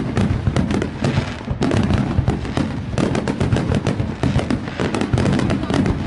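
Fireworks going off in rapid, unbroken succession: a dense run of crackles and bangs.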